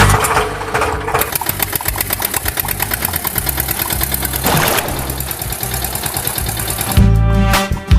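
An engine running with a fast, even pulsing; music comes back in about seven seconds in.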